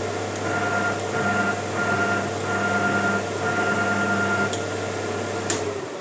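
Maximat lathe running at its slow spindle speed of about 65 rpm: a steady motor hum with a whine that comes and goes. The motor shuts off near the end.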